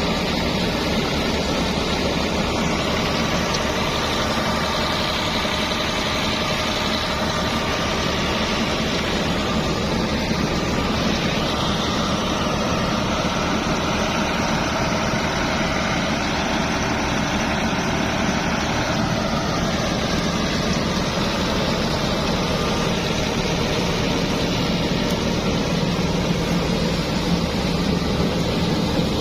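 Al Ghazi tractor's diesel engine running steadily, driving a thresher that is threshing berseem seed, with the thresher's machine noise mixed in.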